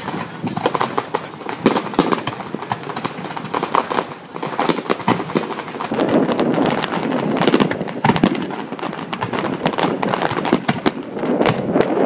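Fireworks display: aerial shells bursting in a dense, continuous run of sharp bangs and crackling, thickening into an almost unbroken crackle in the second half.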